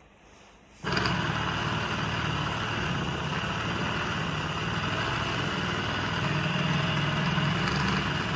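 Small electric motor of an automatic soldering-iron tip cleaner switching on about a second in and running steadily, with a low hum under a broad whirring hiss as its brush spins against the tip.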